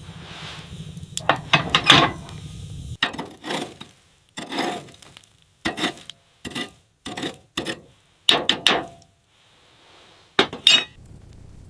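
A series of about a dozen short knocks and clinks, some ringing briefly, with short pauses between them.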